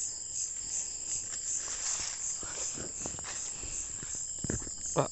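Night chorus of crickets, a steady high-pitched trill pulsing a few times a second. Scattered soft thumps of footsteps, with one louder knock near the end.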